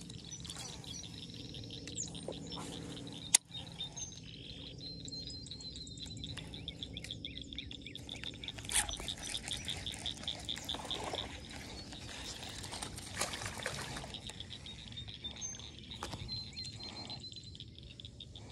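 Birds chirping and singing around the pond, with a repeated trilling call through much of the stretch. A sharp click about three seconds in.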